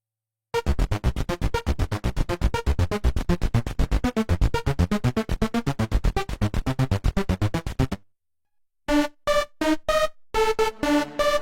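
Waldorf Pulse 2 monophonic analog synthesizer playing presets, recorded dry from the synth: a rapid run of short repeated notes that stops abruptly, then after a brief gap a different patch playing sparser staccato notes.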